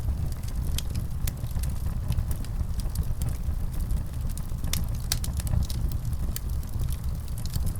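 Wood fire in a fireplace crackling, with scattered sharp pops at irregular intervals over a steady low rumble.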